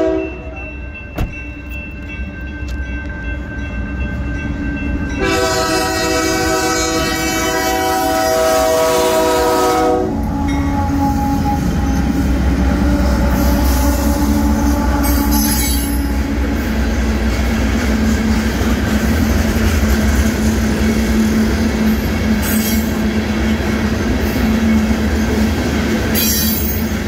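Freight train at a grade crossing: the crossing bell rings, then the locomotive horn sounds one long blast from about five to ten seconds in. The train then rumbles through with a steady engine drone, the loaded rock cars' wheels clattering over the rails and squealing briefly now and then.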